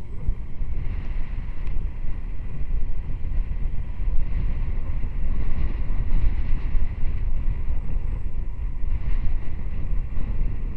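Wind buffeting the microphone of a moving motorcycle, a loud steady low rumble with road and engine noise mixed in.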